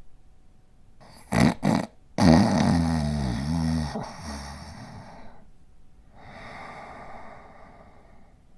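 Border collie snoring in its sleep: two quick snorts about a second in, then one long, low, pitched snore lasting about three seconds, followed by a softer breathy snore.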